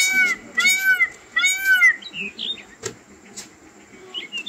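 An animal's call repeated about three times in the first two seconds, each one a short note that rises and falls in pitch, followed by a few faint chirps.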